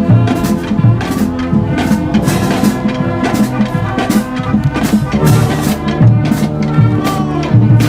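A band playing music, with sustained pitched notes over a steady drum beat.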